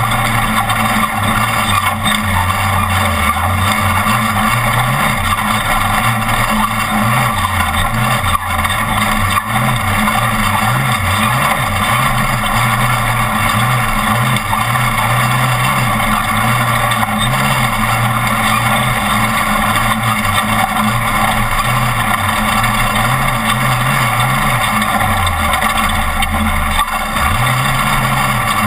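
Off-road race truck's engine running hard, its pitch rising and falling again and again as the throttle comes on and off, under a steady din of wind and rough-terrain noise.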